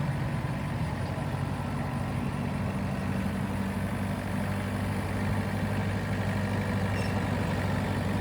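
TYM tractor's diesel engine idling steadily.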